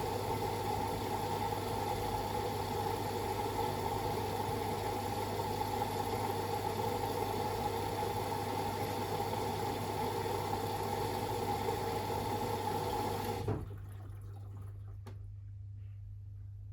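Beko WML 71433 NP washing machine running steadily, then stopping abruptly about 13 seconds in, leaving only a low hum.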